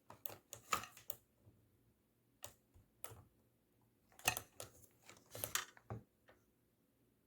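Clicks of push-buttons on a Garmin GMA 347 audio panel being pressed, in scattered single presses and quick runs of two to four. The buttons are not responding as expected.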